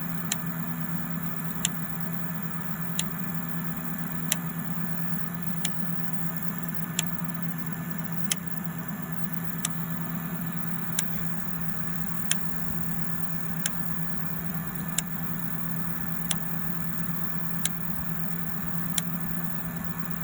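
A machine running with a steady low hum, and a sharp click repeating evenly about every 1.3 seconds.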